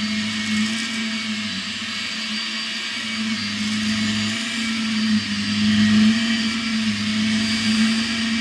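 Shark Rocket Professional vacuum cleaner running steadily: a low motor hum with a high whine over it, the level wavering a little.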